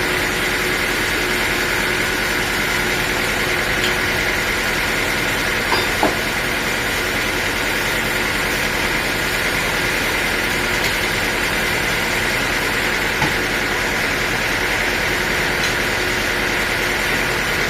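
Sawmill machinery running steadily with a constant whine, with a few faint knocks.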